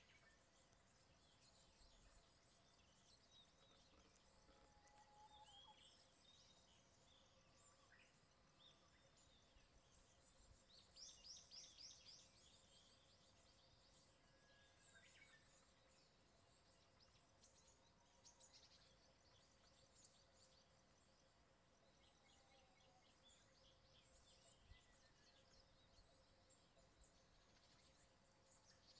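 Faint, scattered chirps and calls of small forest birds, with a quick run of high notes about eleven seconds in, over a faint steady hum.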